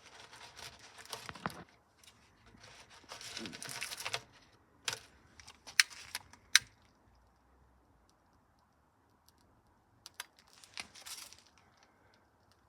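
Paper being crumpled and rustled in short bursts, with several sharp clicks in between, the two loudest close together near the middle.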